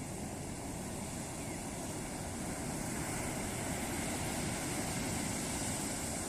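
Ocean surf washing onto a beach in a steady, unbroken rush of noise that swells a little louder about halfway through.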